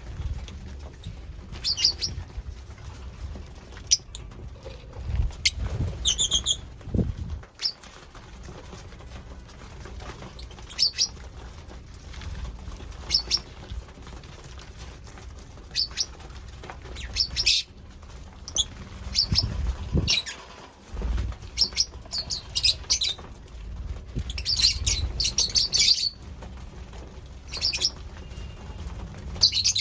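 Lovebirds giving short, sharp high chirps, scattered and sometimes in quick clusters, over low thumps and knocks.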